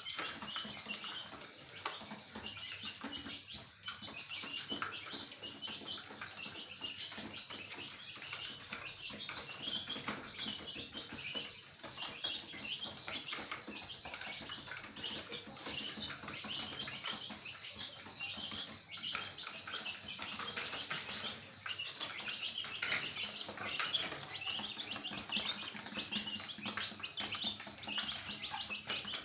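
Many birds chirping continuously in a dense, overlapping chorus, with scattered short rustles and clicks.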